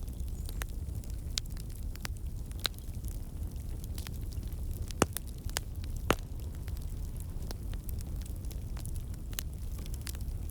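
Wood fire in a fireplace crackling: irregular sharp pops and snaps over a low, steady rumble of the flames. Two louder pops come about halfway through, a second apart.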